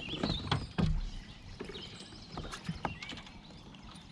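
Several knocks and taps on a kayak, the loudest within the first second, with a few lighter ones afterwards; birds chirp at the start.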